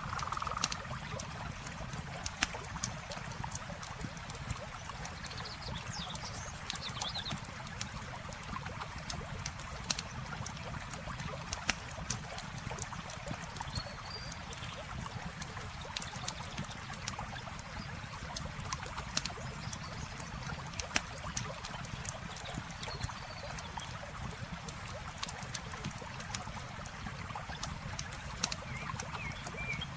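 Campfire crackling, with many sharp pops scattered over a steady sound of flowing water. A few faint bird chirps come and go.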